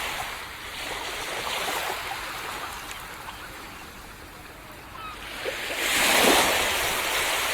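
Sea waves washing onto a beach. The surf ebbs quieter for a few seconds, then a wave breaks and hisses up the shore about six seconds in.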